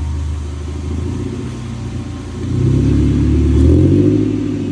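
Off-road 4x4's engine running under load, revving up about two and a half seconds in and easing back near the end.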